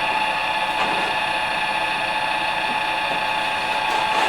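Harvey Turbo T-40 wood lathe with its servo motor running at about 1000 RPM, spinning an unbalanced wooden blank: a steady whine of several held tones over an even noise.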